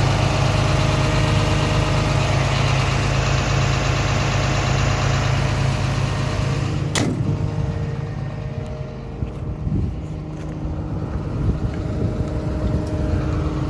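Komatsu PC210LC-10 excavator's six-cylinder diesel engine running steadily at idle. A single sharp knock comes about seven seconds in, after which the engine sounds duller.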